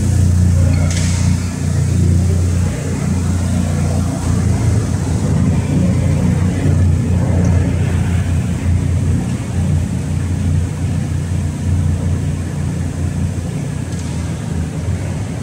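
Steady low rumble of idling vehicle engines, with faint crowd chatter.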